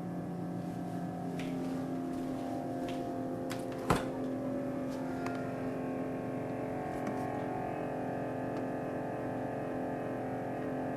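New built-in Sub-Zero refrigerator-freezer running with a loud, steady hum from its freezer compartment, a noise the owners regard as a fault. A single sharp click sounds about four seconds in.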